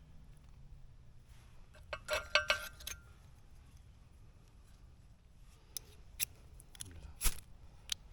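Ferro rod struck with a metal striker to throw sparks onto fire-starter tinder: short, sharp scrapes, a quick flurry of them about two seconds in, then single strikes near the end.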